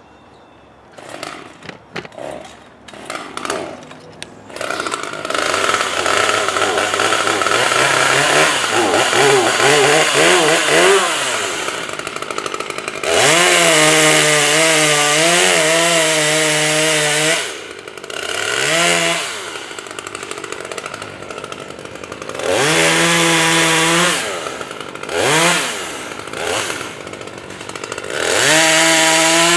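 A chainsaw's two-stroke engine sputters into life about a second in, then runs. It is revved up to full throttle in several long bursts and drops back toward idle between them.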